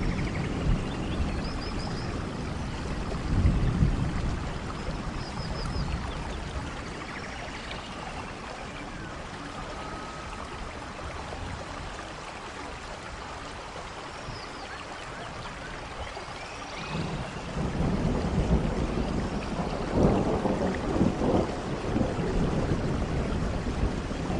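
Steady rain with rolling thunder: low rumbles near the start and again from about two-thirds of the way in, with a quieter stretch of rain between.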